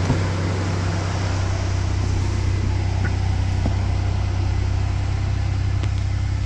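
2000 Toyota 4Runner engine idling steadily shortly after a cold start, the engine cold after sitting unstarted for about ten days.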